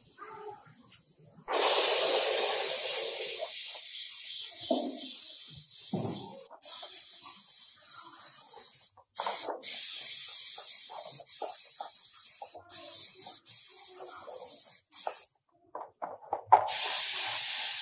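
Compressed-air spray hissing in long steady bursts, with short breaks about 6.5 s, 9 s and 15 s in, starting again near the end.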